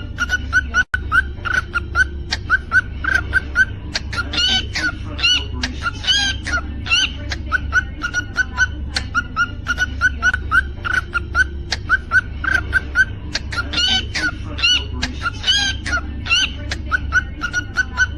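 Cockatiel vocalizing: quick, evenly repeated short chirps, broken twice by louder whistled phrases that rise and fall in pitch. A steady low hum runs underneath.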